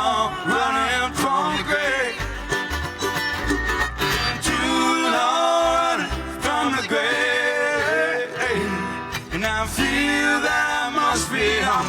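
Live bluegrass band playing, with acoustic guitar and other plucked strings.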